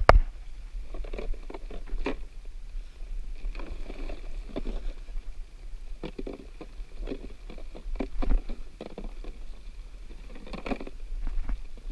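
Glass minnows caught in a cast net, flipping and pattering as the net is handled and emptied, giving irregular light taps and rustles.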